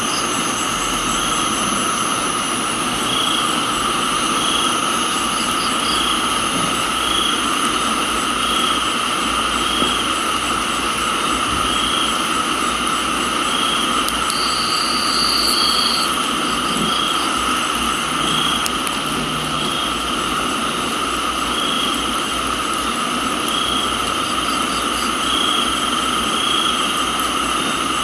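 Steady rain with a chorus of crickets and other insects trilling at several pitches, one of them chirping about once a second. A brief higher call sounds about halfway through.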